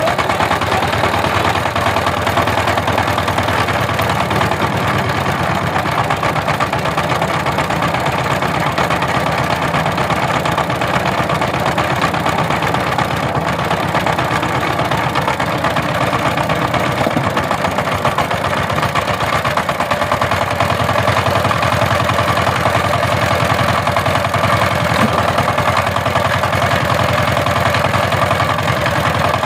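Power tiller's diesel engine running steadily with a rapid, even beat.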